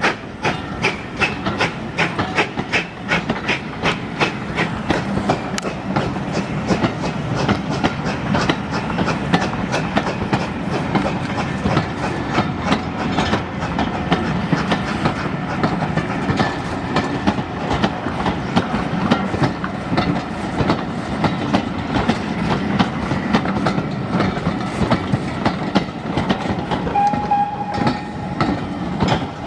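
Train wheels clicking over rail joints in a quick, regular clickety-clack over continuous running noise, as a heritage railway train travels along. A short single tone sounds briefly near the end.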